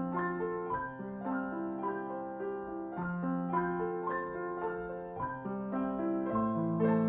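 Background piano music: a melody of short notes over long-held bass notes.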